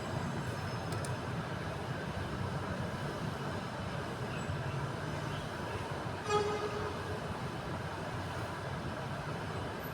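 Steady low rumble of background running noise, with a brief voice-like sound about six seconds in.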